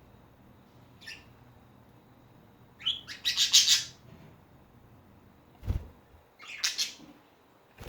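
Budgerigars chirping and chattering in short high-pitched bursts, the loudest burst about three seconds in and another near the end, with a soft thump between them.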